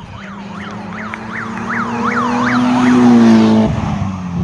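Emergency-vehicle siren with a fast yelp, about three sweeps a second, on a vehicle driving past with its engine running. Both grow louder as it approaches, are loudest about three seconds in, then the engine pitch drops as it goes by.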